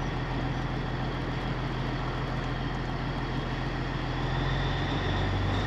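Truck engine running steadily at low speed, heard from inside the closed cab, with a slight change in its low hum near the end as the vehicle maneuvers.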